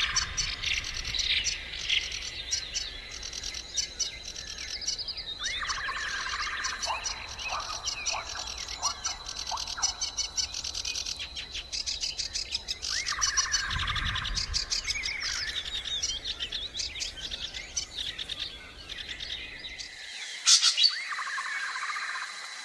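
Several wild birds chirping and singing, with one song phrase coming back about every seven to eight seconds. A low background rumble cuts off about twenty seconds in, followed by a brief sharp sound, the loudest moment.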